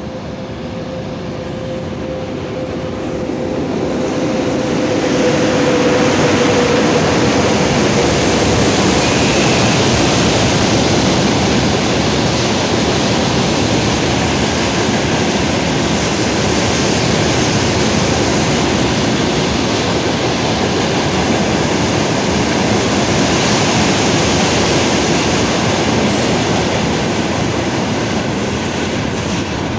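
A freight train of cement hopper wagons, hauled by a VL80k electric locomotive, approaches and rolls past close by. Its wheel and rail noise swells over the first few seconds and then holds steady. A faint steady whine fades out in the first several seconds.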